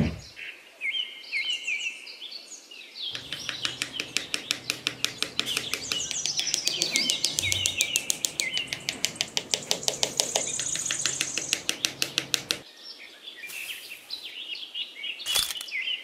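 Birds chirping and twittering, joined from about three seconds in by a rapid, even pulsing of about six beats a second that stops a few seconds before the end.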